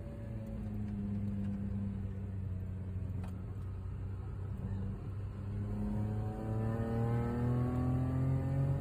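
A 1970s-era car's engine heard from inside its own cabin, running at a fairly steady pitch through a bend, then revving up under acceleration, rising in pitch and growing louder over the last few seconds.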